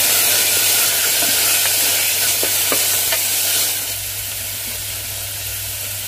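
Soaked green peas, onion and spices sizzling in hot oil in a pressure cooker, stirred with a spoon that clicks against the pot now and then. The sizzle eases about two-thirds of the way through.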